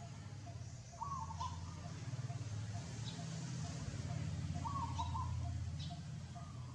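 A bird in the background repeats a short call about every three and a half seconds, with softer single notes between, over a steady low rumble and a few faint clicks.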